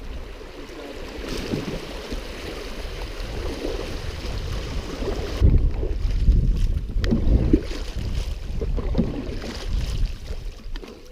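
Wind buffeting the microphone over water sounds from a canoe being paddled on a river. The high hiss drops away suddenly about halfway through, and the wind rumble is strongest after that.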